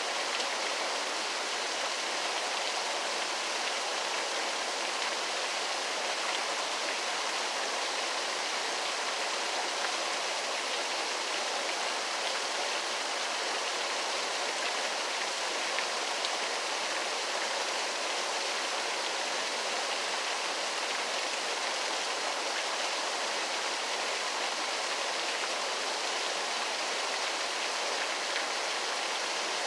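Waterfall: a steady, even rush of falling water, hissy, with little deep rumble.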